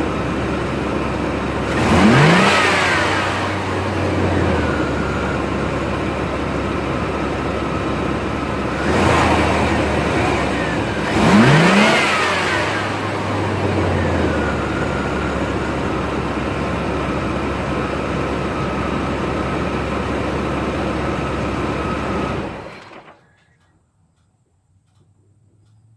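1993 Chevy S10's 4.3-litre carbureted V6 running through its factory exhaust, revved up sharply twice, about two seconds in and again around eleven seconds. It settles back to idle after each rev and is shut off near the end.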